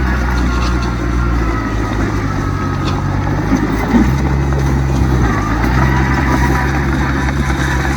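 Heavy diesel earthmoving machinery running, with a deep engine note over a steady mechanical noise. The engine note steps up in pitch about four seconds in and shifts again a little after five seconds.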